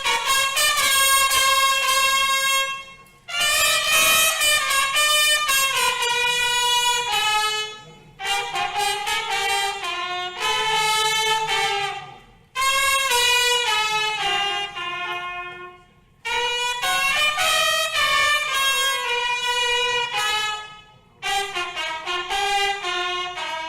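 Brass instrumental music, a trumpet-like melody played in phrases of a few seconds each, separated by short breaks.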